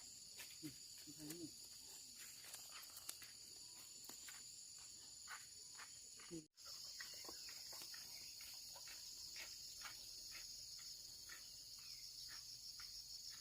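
Steady high-pitched chirring of insects, such as crickets, with scattered light clicks and taps. The sound cuts out for an instant about six and a half seconds in.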